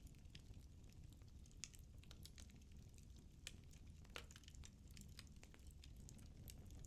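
Firewood burning in a fireplace, crackling faintly with scattered sharp pops over a low rumble of the flames; one pop about four seconds in is louder than the rest.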